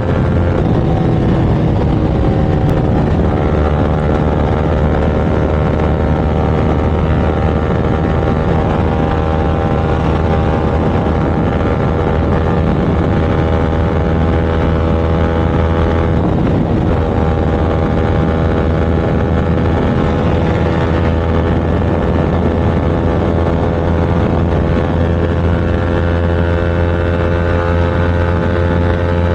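Motorcycle engine and exhaust running steadily at highway speed, with a brief break in the engine note about halfway through before it settles again.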